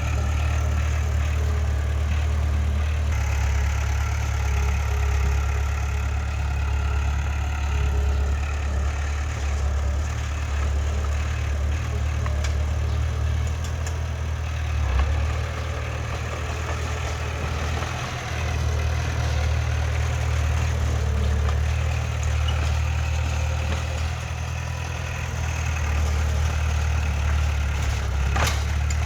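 Heavy earthmoving machinery's diesel engine running steadily with a deep low rumble, with a thump about halfway through and a sharp click near the end.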